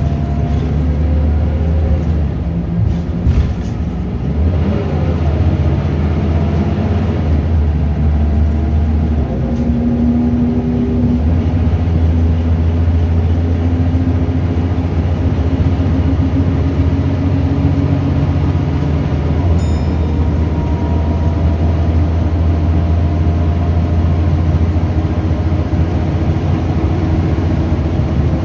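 Scania DC9 9-litre diesel of a Scania L94UB bus pulling through its ZF Ecomat automatic gearbox, with a thin high whine over the engine. The engine note shifts about four seconds in and again about eleven seconds in, then holds steady. There are a few knocks near the start and a single sharp click about two-thirds of the way through.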